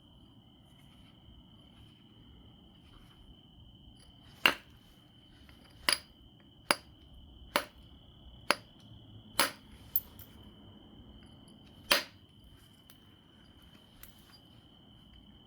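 Sharp clicks of flintknapping on obsidian, about eight detachments at uneven intervals, starting a few seconds in, bunched in the middle and ending with one stronger strike. A faint steady high tone runs underneath.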